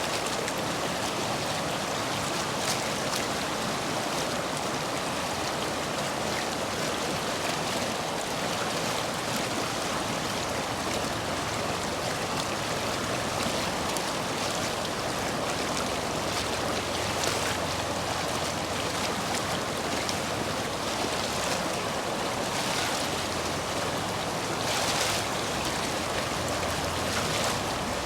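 Stream water rushing and splashing over and between stepping stones, running high after heavy rain. The sound holds steady, with a few brief, brighter splashes.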